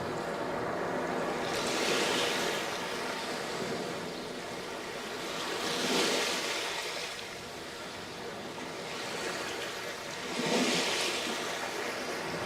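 Sea waves breaking on a sandy beach, three waves about four seconds apart, each a rising hiss that washes out and fades, over a continuous surf rush.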